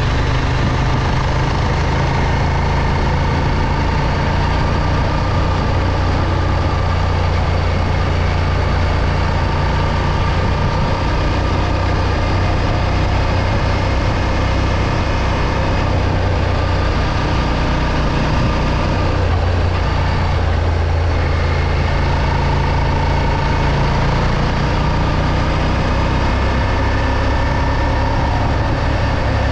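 Moto Morini X-Cape 650's parallel-twin engine running steadily during a road ride, with a brief dip in the engine note about twenty seconds in.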